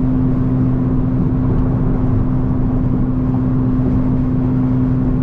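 Honda Civic Si driving at a steady speed: the engine holds a constant low drone with no change in pitch, over road and wind noise.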